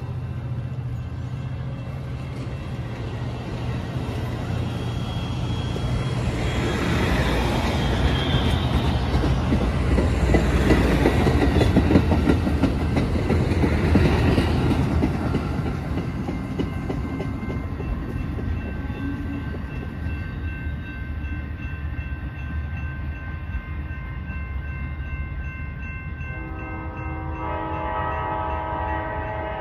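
A train passing close by. Its rumble and wheel clatter build to a peak about halfway through and then fade. The locomotive's air horn sounds briefly at the start and again near the end.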